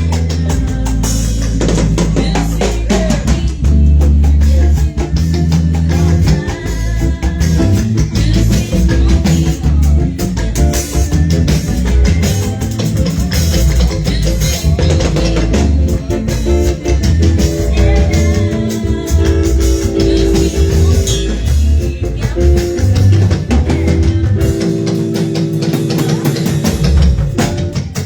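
A band playing with drum kit, bass and guitar, with frequent drum strikes over steady bass notes, as in a sound check.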